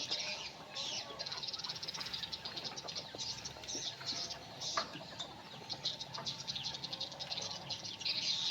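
Many small birds chirping at once in a busy, continuous chatter of rapid, high calls.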